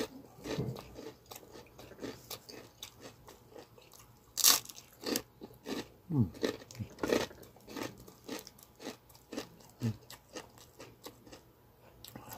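Chewing crispy chicharon (deep-fried pork rinds): a steady run of crisp crunches as the rind breaks between the teeth, with one loud crunching bite about four and a half seconds in.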